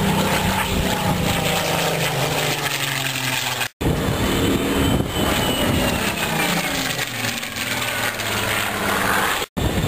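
Propeller-driven World War II aircraft flying past, their piston engines dropping in pitch as they go by. This happens twice, with a sudden break in the sound about four seconds in.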